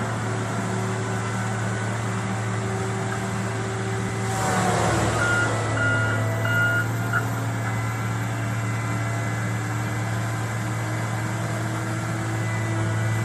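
Forestry harvester engine running steadily. About four seconds in there is a brief rushing sound that falls in pitch, followed by four short beeps.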